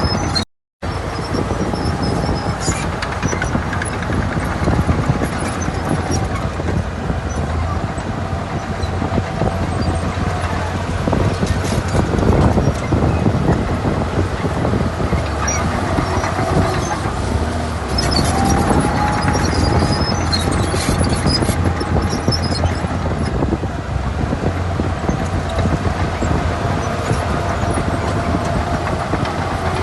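Shantui crawler bulldozer working in sand: its diesel engine runs steadily under load, with a high squeal that rises, holds and fades several times. The sound cuts out for a moment just after the start.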